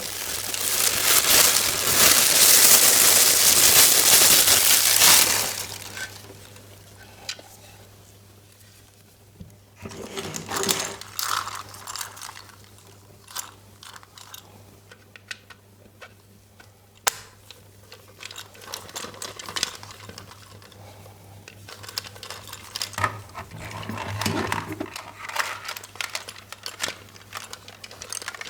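Handling noise from a toy and its packaging: a loud rustle for about five seconds, then scattered clicks and taps.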